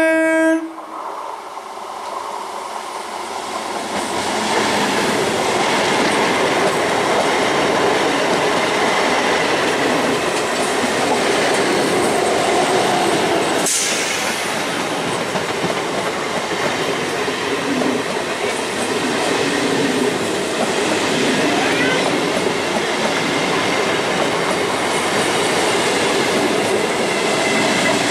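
Electric multiple unit local train's horn cutting off about half a second in, then the train passing close by, its wheels running loud and steady on the rails as the coaches go past.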